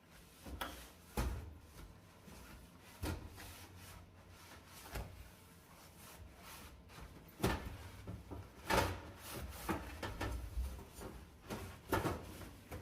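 Hand scrubbing and rubbing on a dirty oven, with irregular short scrapes and knocks; the loudest come in the second half.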